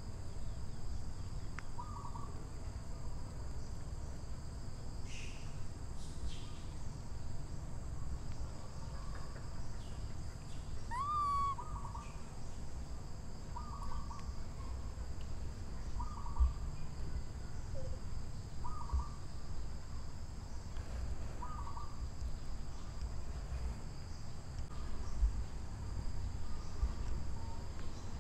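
A bird repeating a short call about every two to three seconds, over a steady high-pitched drone of insects and a low rumble.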